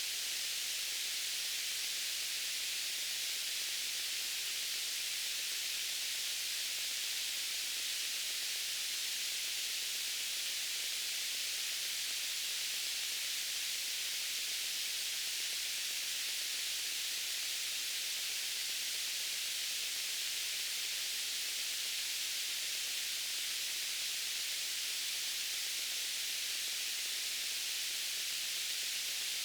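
Steady white noise: an even, unbroken hiss weighted toward the high end, with no change in level.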